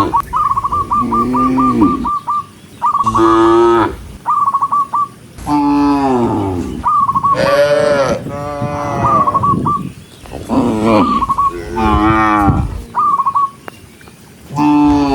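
Cows in a herd mooing: about five long, loud moos, some overlapping, from more than one animal. Between them come runs of a rapid, high, repeated chirp.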